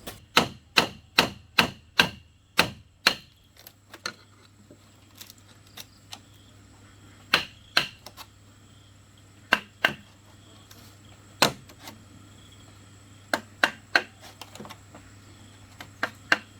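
Sharp knocks of a tool striking bamboo: a quick run of about eight strikes in the first three seconds, then pairs and single strikes every couple of seconds.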